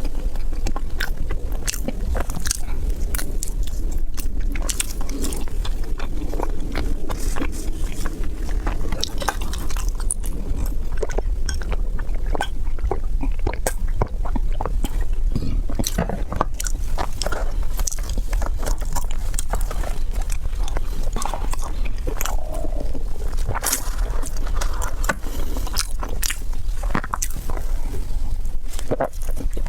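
Close-miked eating: a person biting and chewing, with a dense, irregular run of crisp clicks and crunches. A steady low hum sits underneath.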